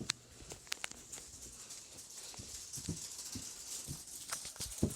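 Ceiling fan spinning with a strip of tape stuck to one blade, the tape slapping and rattling as it goes round. There are scattered sharp clicks and a high rattling hiss that grows louder toward the end.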